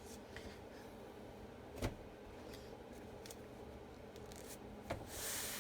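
Faint handling of a sticky adhesive silkscreen transfer: two small clicks, then a short rustling hiss near the end.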